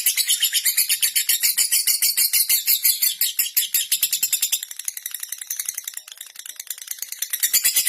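Lovebird chattering in a fast, even run of ticking notes, about nine a second: the 'ngetik' typing-like call used as a lure to set other lovebirds off. It drops to a softer stretch about halfway through and picks up again near the end.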